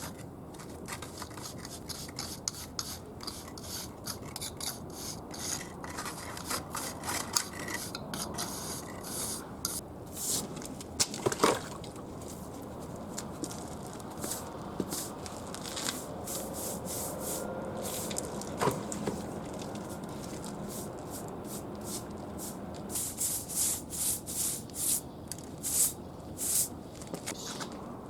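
A trowel scraping and smoothing wet mortar along the joints between bricks, in many short rubbing strokes, with an occasional clack of the tool on brick.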